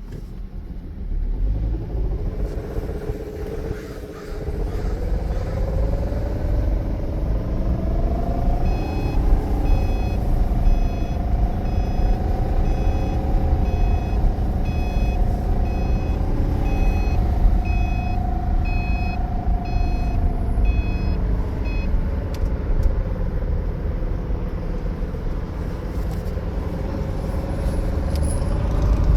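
2013 Subaru Impreza accelerating, heard from inside the car: a deep rumble with a droning tone that rises in pitch for several seconds and then holds steady. This is the noise the car makes under acceleration, and new front axles and wheel bearings have not cured it. A repeating electronic chime sounds about twice a second through the middle stretch.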